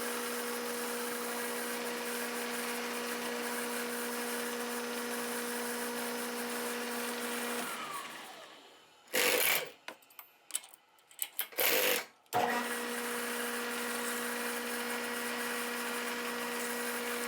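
Bridgeport milling machine's spindle running with a steady hum, winding down about eight seconds in. A few loud knocks and rattles follow in the pause, then the spindle starts up again and runs steadily until it winds down near the end.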